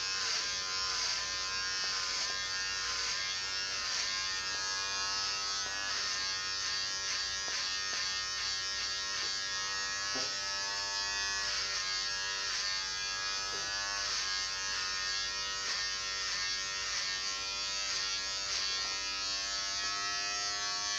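Electric hair clippers buzzing steadily, their pitch dipping slightly now and then as they cut.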